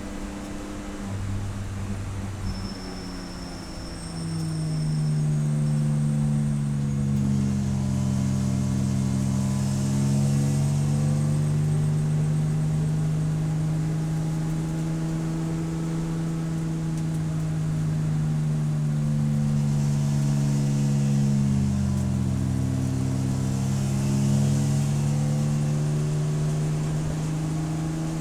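Race car engine running under power. Its pitch climbs about four seconds in, then holds high, rising and falling gently as the revs change.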